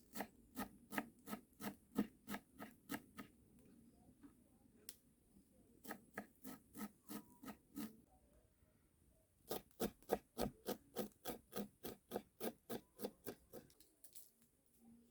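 Knife chopping on a wooden cutting board in three runs of steady strokes, about three a second.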